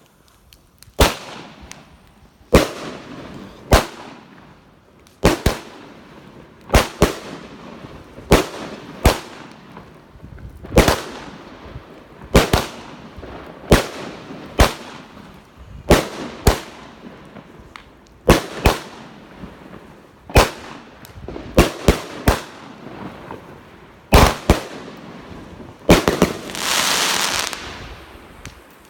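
Weco Galaxis consumer fireworks battery firing its shots one after another: a sharp bang about every second, some in quick pairs. Near the end comes a denser noisy rush lasting over a second.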